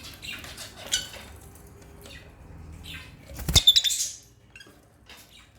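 African lovebirds chirping in short, high calls, with a loud burst of chirps and sharp clicks about three and a half seconds in.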